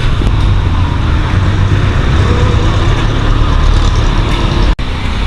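Steady road traffic rumble, with passing vehicles. The sound cuts out for an instant near the end.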